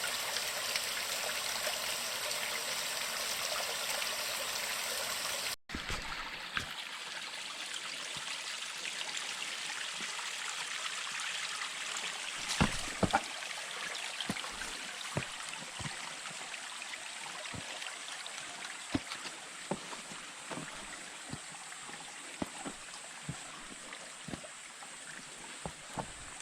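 A stream's water running steadily; after an abrupt cut about five seconds in, the water is fainter and irregular sharp taps come every second or so, loudest about halfway through.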